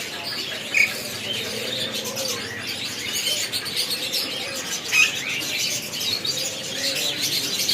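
A crowd of caged birds chirping and calling together in a continuous twittering chorus, with two louder sharp calls, one about a second in and one about five seconds in.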